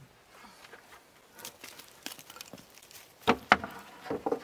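Scattered knocks and rustles of corrugated sheets and wood being handled over ground covered in wood chips. Two sharp knocks come a little past three seconds in, and the loudest clatter comes at the very end.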